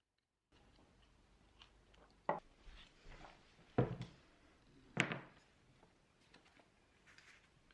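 Objects being handled in a small room: three sharp knocks or clatters, each about a second and a half apart, with fainter small handling sounds between them.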